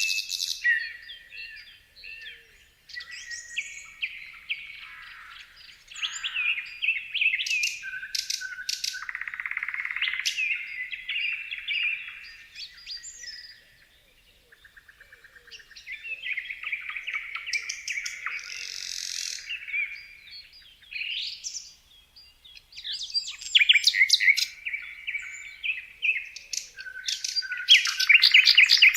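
Songbirds chirping and singing in short, varied phrases and trills, with brief pauses between bursts and a rapid run of ticks about halfway through.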